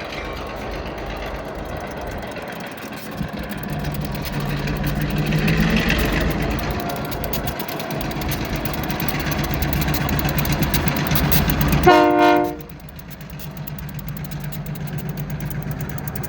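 Diesel freight locomotive running as it passes, its engine note rising about five seconds in. A single short horn toot, the loudest sound, comes about twelve seconds in.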